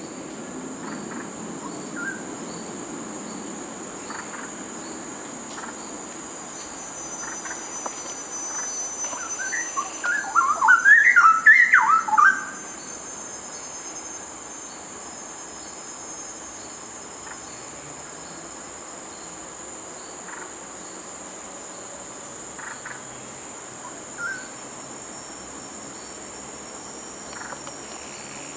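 Straw-headed bulbul (cucak rawa) singing one loud burst of rapid, rich warbling notes about ten seconds in, lasting some three seconds, with a few faint single notes at other times. A steady high-pitched drone runs underneath.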